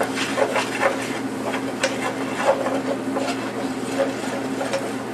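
A spoon stirring and scraping flour into hot fat in a frying pan to make a roux: a run of short, irregular scrapes and taps over a steady low hum.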